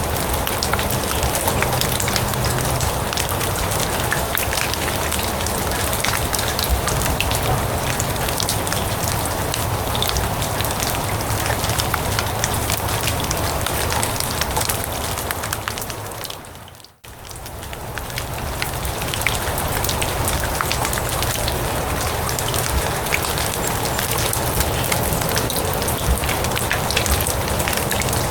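Steady rain falling on grass: a dense patter of drops with fine crisp ticks. About two-thirds of the way through it fades out almost to silence for a moment, then swells back in, like the seam of a looped recording.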